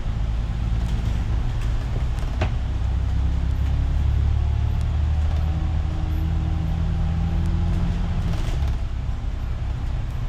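City bus engine running under way, heard from inside the cabin. Its note climbs as the bus gains speed, from about three seconds in until it eases off near eight seconds. A sharp click sounds about two and a half seconds in.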